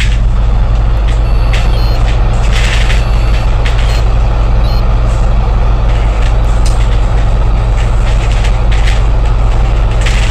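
City bus engine running steadily with a deep drone, heard from inside the bus. A few short hisses of air break in.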